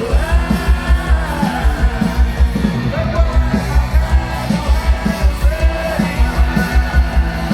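Rock music with a fast, steady kick-drum beat and a singing voice.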